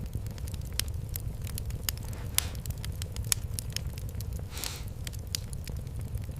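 Wood fire in a fireplace crackling, with scattered sharp pops over a low steady rumble of the flames. A short hiss comes a little after four and a half seconds in.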